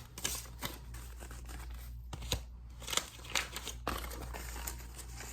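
Paper banknotes being handled and peeled off one at a time during a hand count: crinkling with irregular short snaps and rustles, over a steady low hum.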